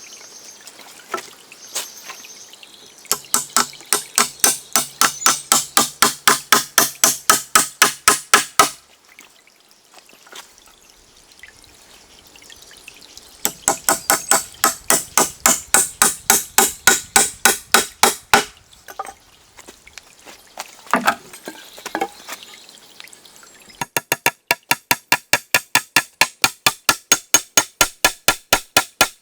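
Rapid, regular strokes of a hand tool working wood, about three to four a second, in three runs of around five seconds each with short pauses between; the last run is a little faster.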